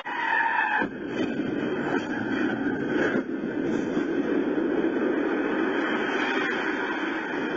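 Steady road and engine noise of a moving car, heard from inside through a dashcam microphone, with a brief steady tone in the first second.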